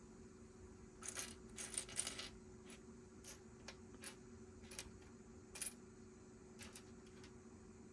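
Small plastic Lego pieces clattering and clicking as they are handled and sorted, with a short burst of rattling about a second in followed by scattered single clicks.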